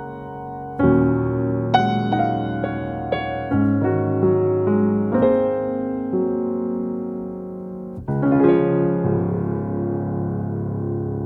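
Slow, soft piano background music: single notes and chords struck one after another and left to ring, with a fuller chord about eight seconds in that rings on to the end.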